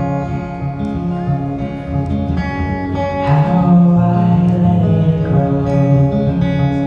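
Live music: a strummed acoustic guitar with a singing voice, held chords ringing on.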